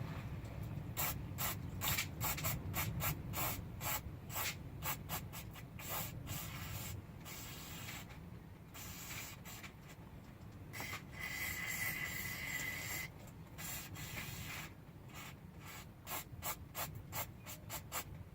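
Small lawnmower carburetor parts being handled and worked on, with quick clicks and rubbing scrapes. About halfway through, a steady hiss runs for several seconds, with a faint thin tone in it, before the clicking resumes.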